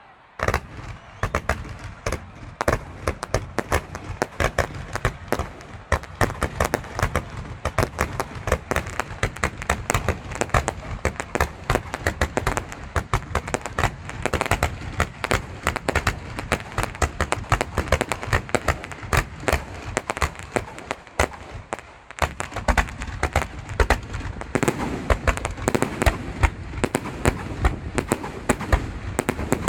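Fireworks display: a dense, continuous barrage of sharp bangs and crackles that starts suddenly about half a second in and carries on, with a brief lull about three quarters of the way through.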